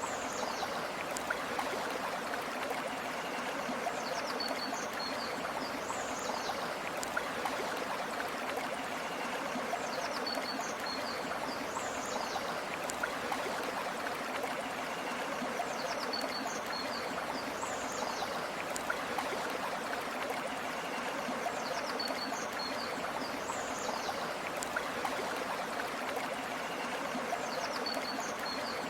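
River water flowing steadily. A short high bird call, a few quick chirps and a falling whistle, comes back about every six seconds.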